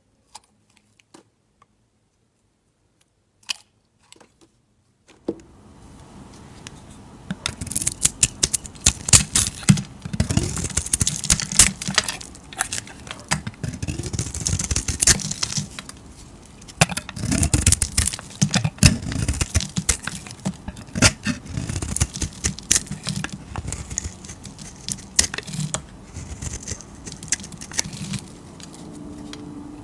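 Knife cutting and scraping through bars of soap: a few isolated clicks at first, then from about five seconds in a steady hiss under dense, irregular crisp crackles and scrapes as the blade passes through the soap.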